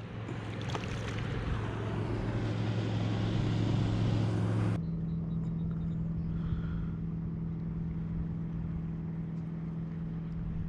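Motorboat engine running steadily as a low hum. About five seconds in, the sound changes abruptly to a higher, duller hum.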